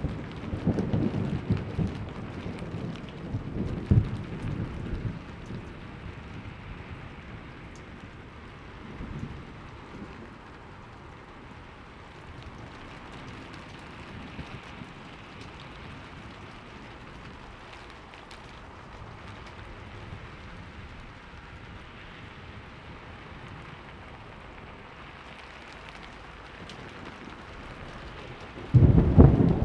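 Thunderstorm: steady rain falling, with rolling thunder rumbling for the first few seconds and fading, then a sudden loud thunderclap rumbling in near the end.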